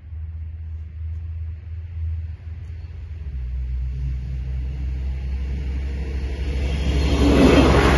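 Bombardier Talent diesel railcar approaching the crossing, its rumble growing steadily louder and loudest near the end as it nears.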